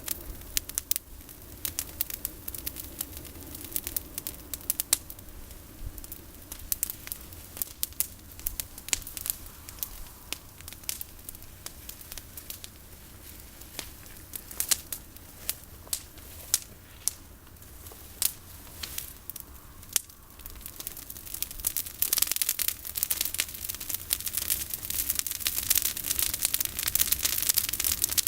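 Campfire of olive branches burning, crackling with sharp irregular pops; about twenty-two seconds in, the crackling grows denser and louder, with a hiss.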